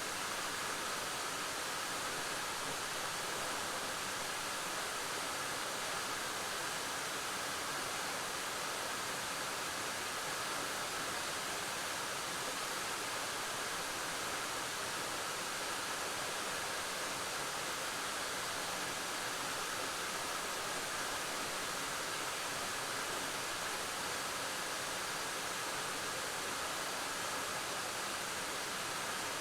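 Suok Waterfall falling steadily: a constant, even rush of water.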